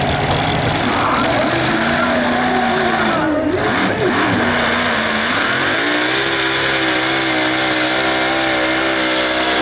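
Modified pulling tractor's engine revving unevenly for a few seconds, then climbing about six seconds in to a steady high rev that it holds, as under full load on a pull.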